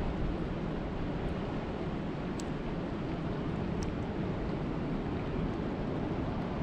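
Steady, dense rain making an even rushing hiss that is heavier in the low end, with a couple of faint ticks of individual drops partway through.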